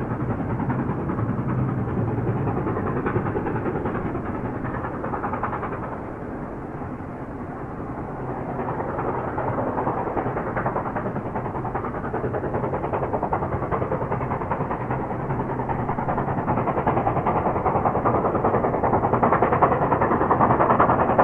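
SY-class steam locomotive working, a steady mechanical noise that eases briefly and then grows louder near the end.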